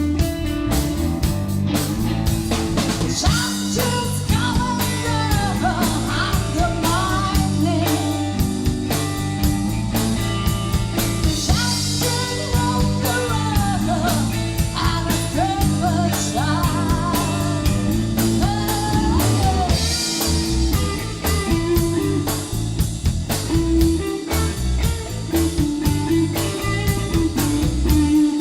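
Rock-blues band playing: electric guitar, bass guitar and drum kit under a lead line that bends up and down in pitch.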